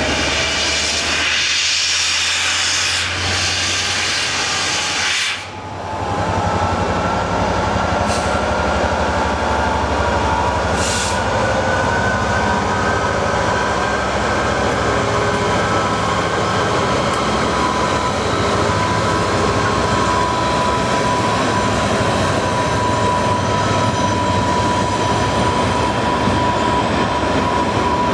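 Class 67 diesel-hauled passenger train running, with continuous rail and wheel noise. A thin whine rises slowly in pitch from about five seconds in.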